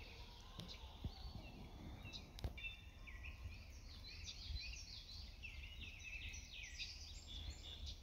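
Faint songbirds chirping and singing, with a dense run of short, high chirps from about two seconds in until near the end.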